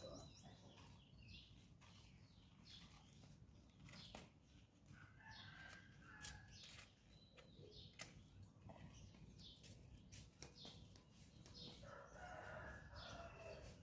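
Faint bird calls, among them chickens, coming as scattered short chirps and a few sharp clicks over a very quiet background.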